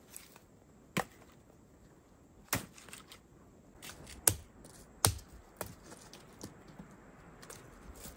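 A handful of sharp knocks or cracks at irregular intervals, the loudest two about four and five seconds in.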